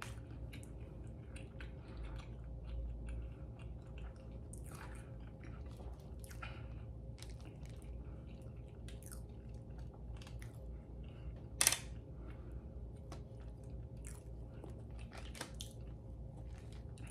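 A person chewing soft, fluffy pancakes close to the microphone: a run of small wet mouth clicks and smacks, with one sharper click a little past halfway.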